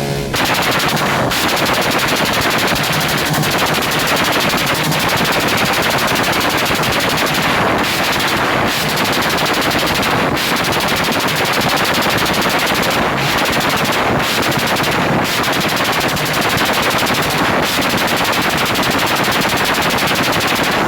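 Motorcycle engine held on its rev limiter, the ignition cutting in and out so fast that it gives a loud, continuous stutter, with a few brief breaks.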